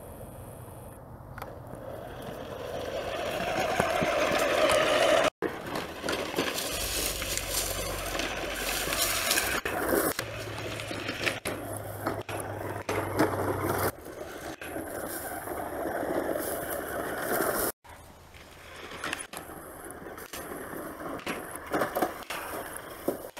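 A Radio Shack Extreme Machine RC monster truck driving, its dual electric motors running and its tyres rolling and scraping over the ground. The sound grows louder over the first five seconds and cuts off abruptly twice.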